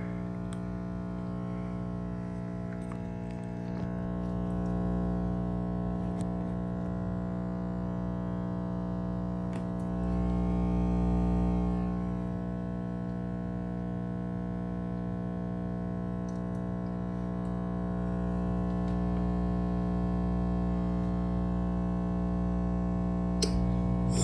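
Heat pump running in its defrost cycle: a steady buzzing hum of many pitches that swells a little about four seconds in and again about ten seconds in. The owner says the unit is malfunctioning and slow to switch out of defrost.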